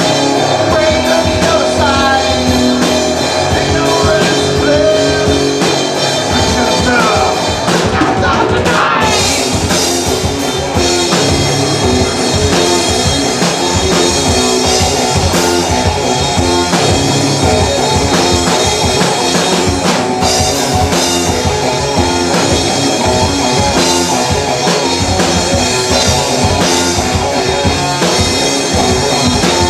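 Live rock band playing loud, with drum kit and electric guitar; a voice sings through the first few seconds, then the band plays on with a steady drum beat.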